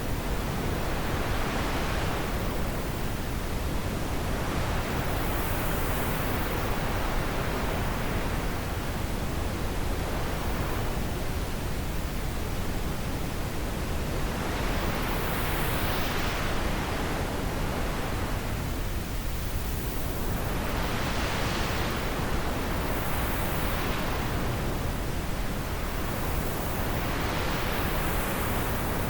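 Wind blowing steadily: a constant rushing hiss that swells in gusts every few seconds.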